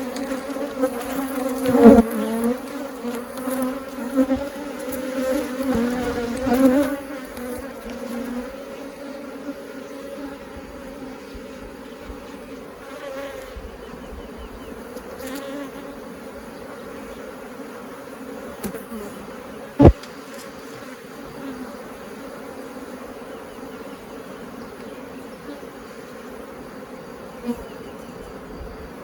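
Honeybees buzzing in a steady drone around an open hive, louder and more agitated for the first several seconds and then settling lower. Two sharp knocks cut through, one about two seconds in and a louder one about twenty seconds in.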